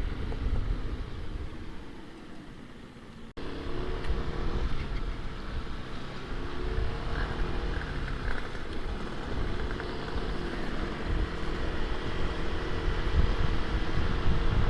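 Wind buffeting a microphone inside a motorcycle helmet, over the hum of a Yamaha NMAX scooter's engine while riding. The noise dies down, cuts off abruptly about three seconds in, and then returns, slowly growing louder.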